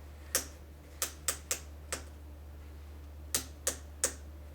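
Sharp plastic clicks from a 3x3 speedcube being handled and adjusted: eight separate clicks, five in the first two seconds and three in quick succession near the end.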